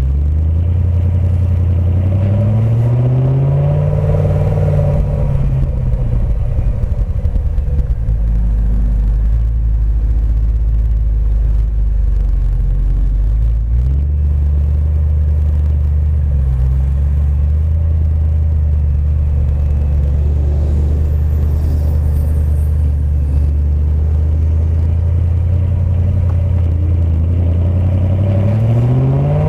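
BMW E92 M3's V8 running through its M Performance exhaust. The revs rise for the first few seconds, then drop and hold at a steady low drone, and climb sharply again near the end.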